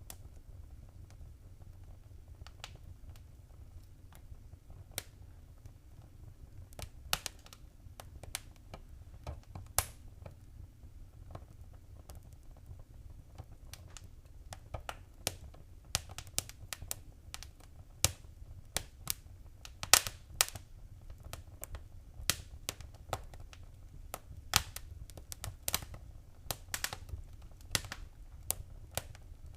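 Fire crackling in a fireplace: scattered sharp pops and snaps over a low steady rumble, sparse at first and much busier from about halfway through.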